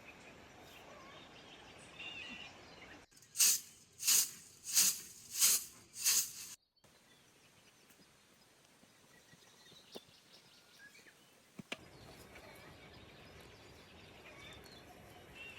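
Outdoor rural ambience with faint bird calls. About three seconds in come five loud, even strokes roughly two-thirds of a second apart, each a short hissing swish or scrape.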